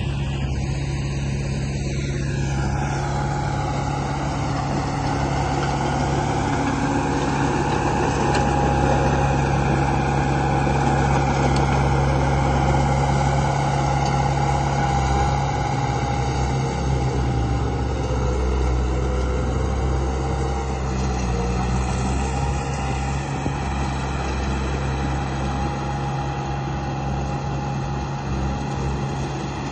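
Radio-controlled model construction machine running, its electric drive motor and gearbox giving a steady hum with a held high tone.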